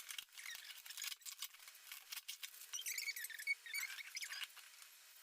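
Faint squeaks and scattered light clicks from a gift package being handled before it is opened.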